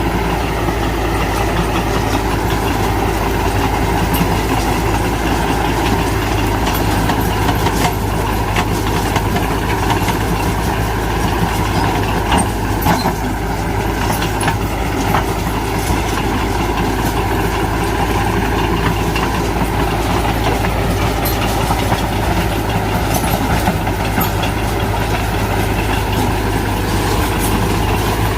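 Heavy diesel engine of earthmoving machinery running steadily, with a few faint metallic clanks about midway.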